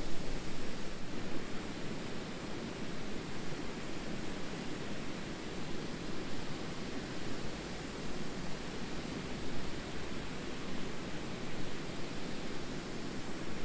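A steady, even rushing noise outdoors, with no distinct cracks or knocks.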